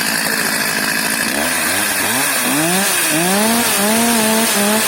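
Two-stroke chainsaw running, revved up and down in quick repeated throttle blips from about a second in. The saw keeps stalling, and fuel or damp is suspected.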